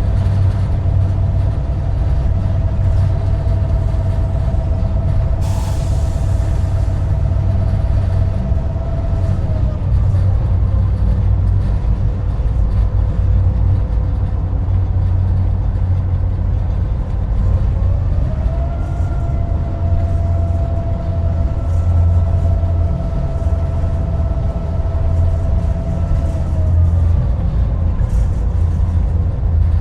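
GP38-2 diesel locomotive running with a steady low rumble and a whine that drops in pitch about ten seconds in, rises again a little before halfway, and drops again near the end.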